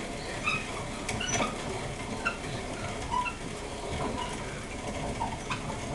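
Grain grinder grinding oat groats into steel-cut oats: a steady grinding noise with scattered clicks and short high squeaks.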